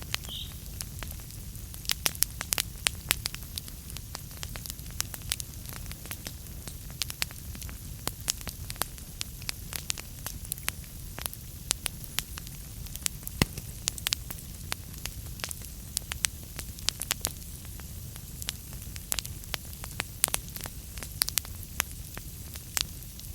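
Wood fire burning in a fireplace: logs crackling and popping in irregular sharp snaps, some much louder than others, over a steady low rumble and hiss of the flames.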